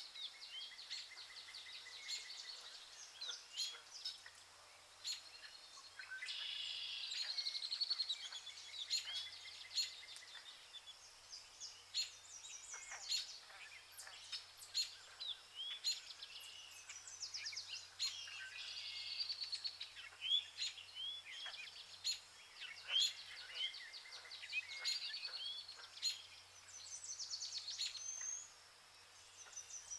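Rainforest birds calling in chorus: many overlapping short chirps, quick rising notes and rapid trills, with sharp clicks, over a steady high hiss.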